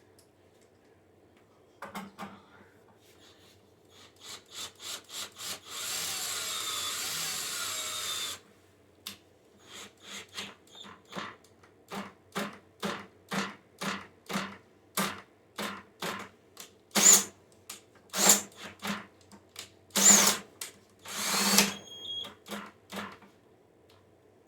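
Bolts being driven home with a 10mm socket: a power driver runs steadily for about two seconds, then a ratchet clicks at a steady beat of about two a second as the bolts are tightened down.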